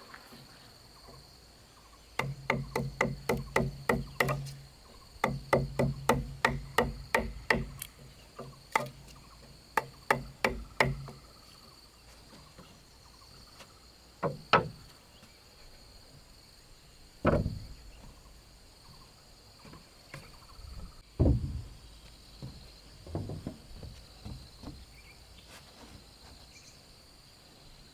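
Repeated blows on wood in two quick runs of about three strikes a second, with a low hum beneath them, then a few heavier, widely spaced knocks. Crickets chirr steadily throughout.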